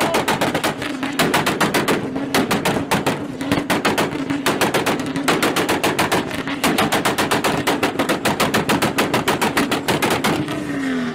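Tuned car engine held on a two-step rev limiter, firing rapid machine-gun-like bangs in bursts of a second or two over a steady drone at fixed revs.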